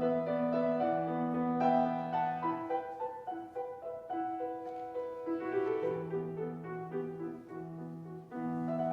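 Instrumental music: a keyboard plays slow, sustained chords, with the notes held and changing every second or so. No singing is heard.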